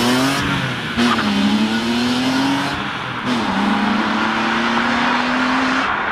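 BMW M3's straight-six engine accelerating hard through the gears as the car drives away. The pitch climbs, drops at an upshift about a second in, climbs again and drops at a second upshift about three seconds in, then holds steady.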